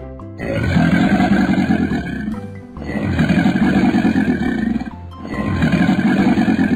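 Crocodile growl sound effect, three long growls of about two seconds each, over children's background music.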